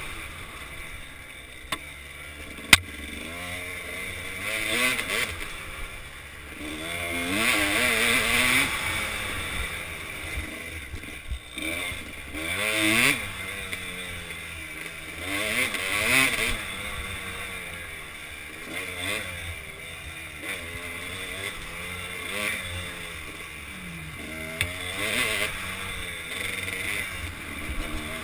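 Kawasaki KDX200's two-stroke single-cylinder engine, revving up and dropping back again and again as the throttle is worked, heard from a helmet-mounted camera. A single sharp knock comes about three seconds in.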